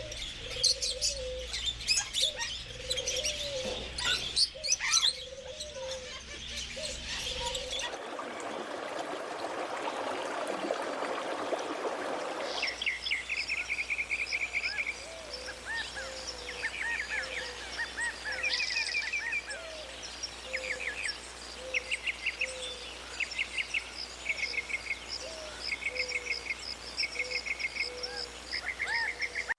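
Small birds chirping and trilling in quick repeated phrases, over a repeated low cooing call. About eight seconds in there are four or five seconds of rushing noise, then the trills return.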